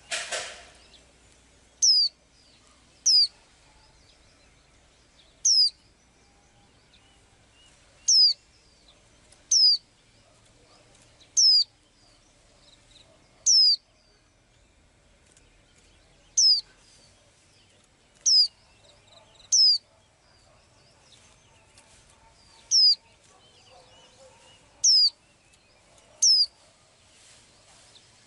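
A small bird repeating a short, high chirp about a dozen times, each a quick downward-sweeping note, with gaps of roughly one and a half to three seconds between them. There is a brief noisy burst right at the start.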